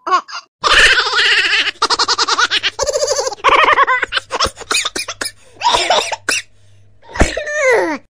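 Young child laughing: a few seconds of rapid, high-pitched giggling, then a couple of shorter laughs, the last falling in pitch, over a steady low hum.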